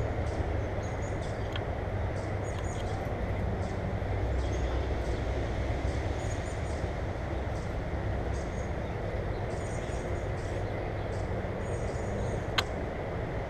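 Small birds at a feeder giving many short, high chirps over a steady low rumble, with one sharp click near the end.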